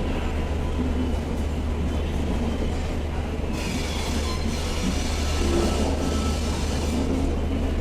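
Express passenger train pulling out of the station, its coaches running over the rails with a steady rumble. A high squeal of wheels on rail rises about three and a half seconds in and fades after two seconds.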